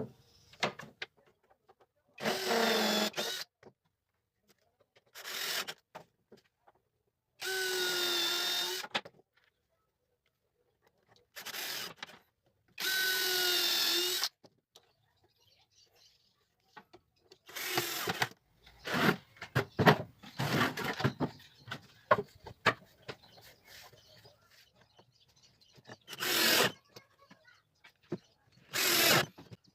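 Power drill running in short bursts of about a second, each at a steady pitch, while a wooden batten is fixed into pallet wood. In the middle come a series of sharp knocks and clatter of wood and tools being handled.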